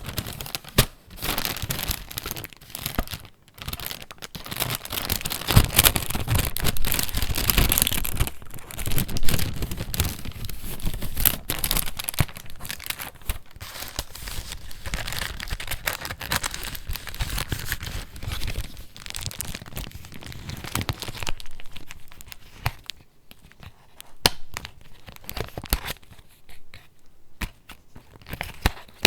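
Paper pages of a handmade junk journal being turned and handled, a dense crinkling and rustling of paper. It thins to sparse rustles and small taps over the last several seconds.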